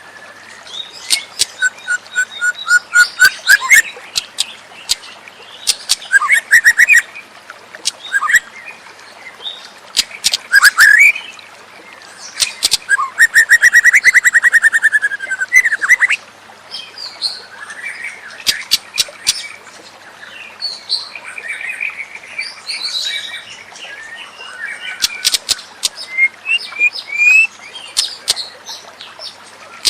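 White-rumped shama (murai batu) singing a varied, continuous song of whistled phrases and rapid clicking trills, with a long loud trill falling slightly in pitch about halfway through.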